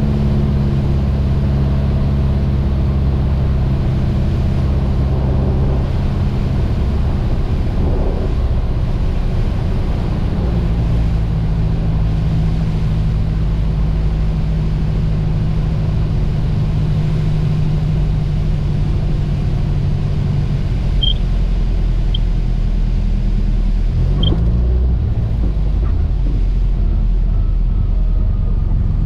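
Mooney M20J's four-cylinder Lycoming engine and propeller droning steadily. The engine note shifts about eight to ten seconds in and dips briefly about twenty-four seconds in, as power changes. A few short high chirps come near the end.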